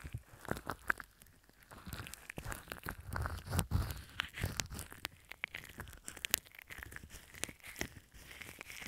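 Slime being squished and worked close to an earphone microphone, giving dense, irregular sticky crackles and pops, heaviest about three to four seconds in.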